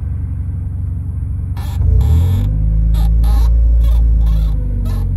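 1993 Honda Accord four-cylinder engine idling, then revving up about two seconds in and running louder before easing off near the end, heard from inside the cabin. A few short clicks or scrapes come just as it revs up.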